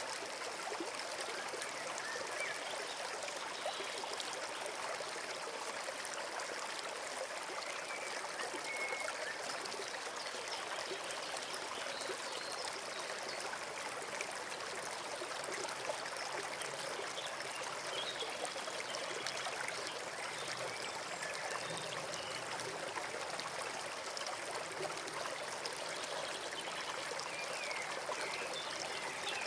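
Forest stream running over stones, a steady babbling trickle of water.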